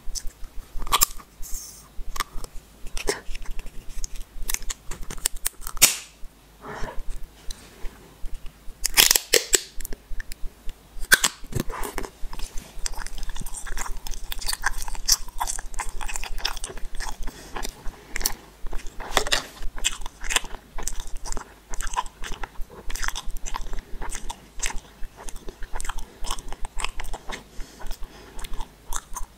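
Gummy candy balls being bitten and chewed close to the microphone: a dense, irregular run of small clicks and smacks, with a few louder bites near the middle.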